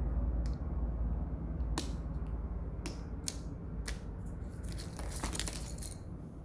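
Close-up handling noise: a low rubbing rumble with scattered small clicks, and a short run of crackling about five seconds in.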